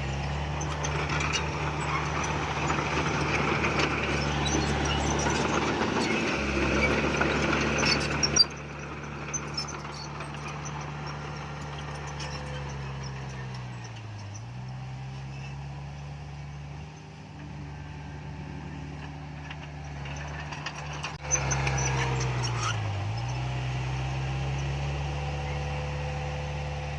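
Heavy diesel earthmoving machinery running with a steady low engine hum. It is loud and noisy for the first eight seconds, then cuts to a quieter run, and grows loud again about three-quarters of the way through. The engine pitch dips briefly twice.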